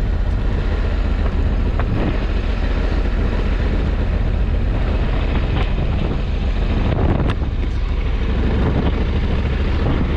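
Motorcycle on the move in heavy rain: a loud, steady rush of wind over the microphone with a deep rumble of engine and wet-road noise underneath, and a few sharp ticks.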